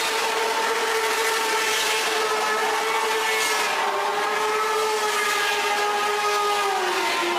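Motorcycle engine held at high revs during a burnout, a steady high engine note that drops a little about four seconds in and again near the end, over a constant hiss.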